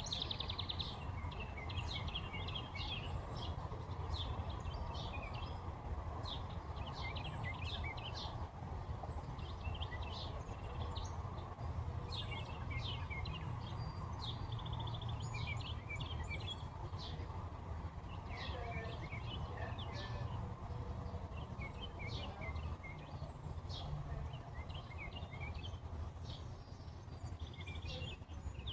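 Several wild birds chirping and calling throughout, with a few short buzzy trills now and then, over a steady low outdoor rumble.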